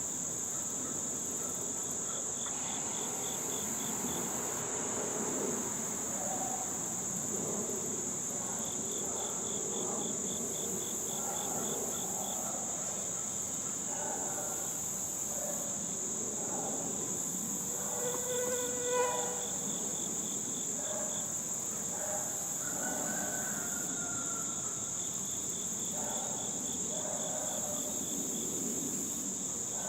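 Honey bees buzzing around an opened hive, over a steady high insect drone and runs of rapid chirps repeated every few seconds. One brief, louder pitched buzz about two-thirds of the way in.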